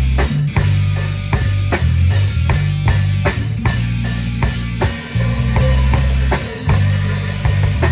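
Live rock band playing: a drum kit keeps a steady beat over bass and electric guitar.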